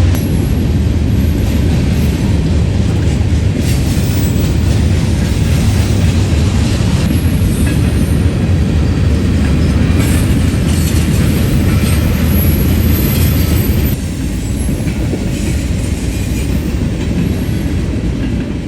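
A manifest freight train rolling past at close range: a steady heavy rumble with the clickety-clack of wheels over rail joints and some wheel squeal, easing off slightly near the end.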